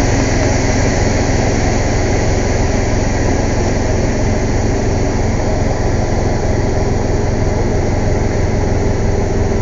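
Air compressor running loudly and steadily, a low engine rumble with a constant hiss over it.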